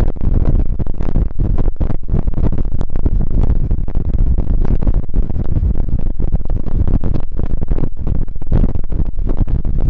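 Wind buffeting the microphone of a camera on a moving motorcycle, a loud rough rumble with ragged flutter throughout, mixed with the motorcycle's running and road noise.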